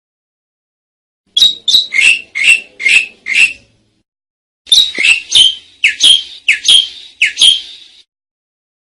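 Asian pied starling (jalak suren) calling in two loud runs of short, sharp notes that each slide downward: about six notes in quick succession a second and a half in, then about eight more from about five seconds in.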